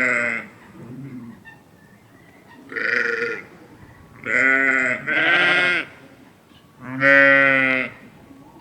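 Sheep bleating, about five loud calls spaced a second or two apart, two of them back to back midway and the longest near the end.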